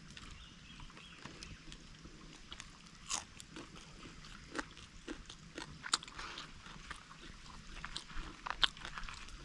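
A person eating: faint chewing with scattered crunches and clicks.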